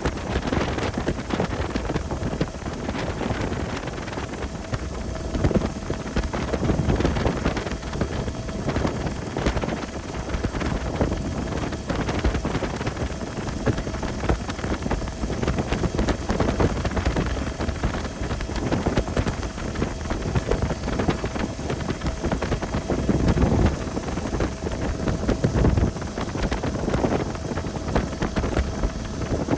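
Wind buffeting the microphone over a steady low rumble, rising and falling in gusts.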